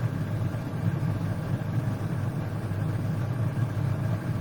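Steady low mechanical rumble, like a running engine or motor, with no change in pitch or level.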